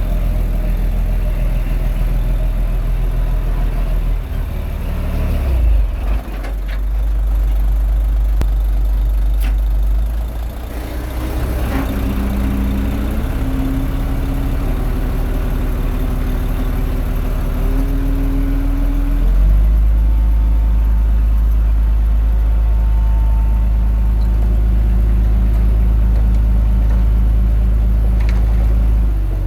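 Komatsu D21A bulldozer's diesel engine running as it works, its engine note shifting several times, and heavier and louder from about two-thirds of the way through.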